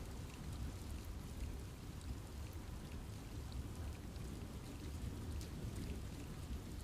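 Steady rain falling in a forest, with a continuous low rush and scattered individual drops ticking on leaves.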